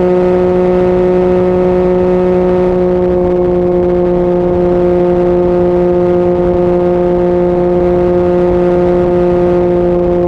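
Yamaha MT-09 inline-three engine with an Akrapovic exhaust, held at a steady high engine speed while cruising. Its note sinks slightly in pitch over the few seconds.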